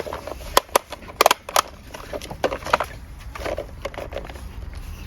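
Small die-cast toy cars clicking and clattering as they knock against each other and a hard surface: a quick run of sharp clicks in the first two seconds, then softer rattles.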